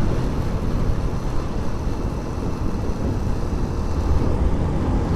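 Steady rush of wind and road noise from a moving motorcycle, heard at the rider's helmet microphone, with most of the sound deep and low.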